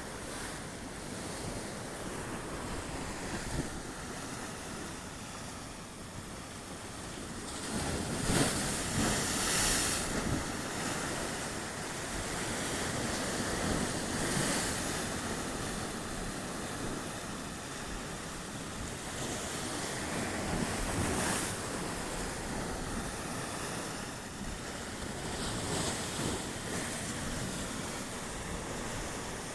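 Sea waves washing onto the shore, swelling and falling back every several seconds, with the biggest surge about eight seconds in. Wind blows on the microphone throughout.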